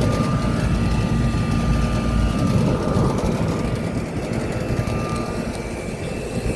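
Outdoor central air-conditioner condensing units running under heavy load: steady condenser-fan drone and compressor hum, with a faint steady whine over it; the deepest rumble eases a little a couple of seconds in.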